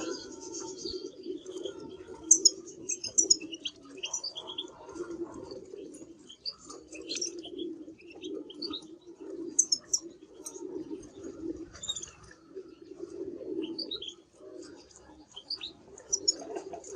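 Canary chirping in short, scattered notes, over a steady low warbling sound that pulses on and off underneath.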